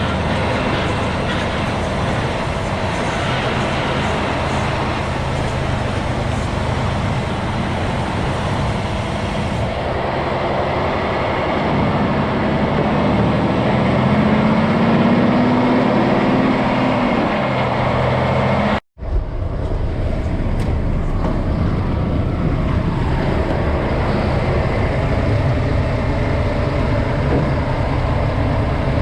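A logging truck's diesel engine runs under load with road noise while driving. Near the middle the engine pitch rises and then falls once. The sound breaks off for an instant about two-thirds of the way through, then carries on.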